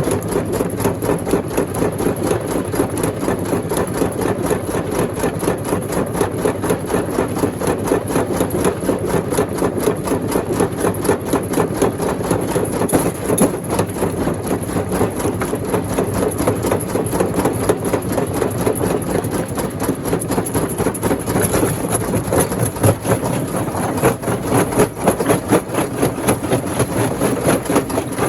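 Rock crusher machine running steadily, with a dense, rapid clatter.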